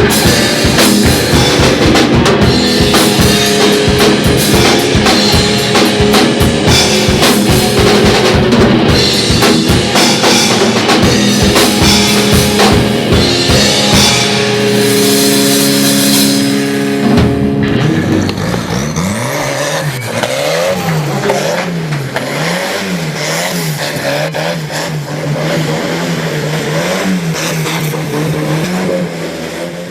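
Band music driven by a drum kit, ending abruptly about seventeen seconds in; then a vehicle engine revving up and down over and over, fading out at the end.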